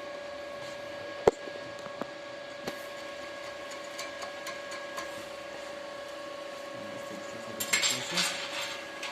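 Arc-welding machine humming steadily, with a sharp metallic clink about a second in and a few lighter clicks. Near the end the electrode is struck and the arc crackles and sputters for about a second and a half.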